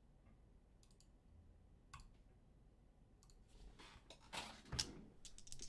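Faint clicking of a computer mouse and keyboard: a few single clicks, then a quicker run of clicks with a brief rustle in the second half.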